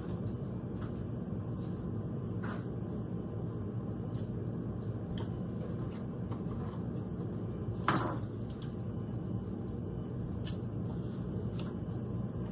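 Kitchen clatter of dishes and utensils, short knocks scattered through, with the loudest clatter about eight seconds in, over a steady low hum.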